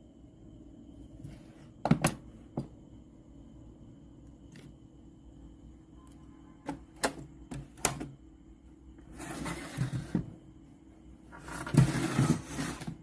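Handling noises from working on a radio cassette player: several sharp clicks and knocks, then two rustling, scraping noises of about a second each near the end, over a faint steady hum.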